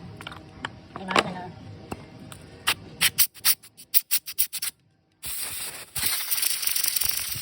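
A few knocks, then a quick run of short rubbing strokes at about five or six a second, then a steady hiss from about five seconds in.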